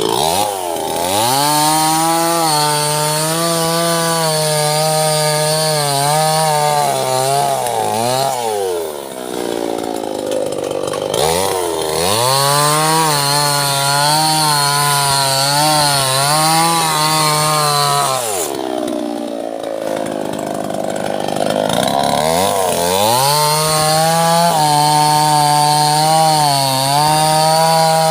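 Small two-stroke chainsaw cutting sengon wood: three long bursts at full throttle, the pitch wavering slightly under load, each dropping back to idle before the next.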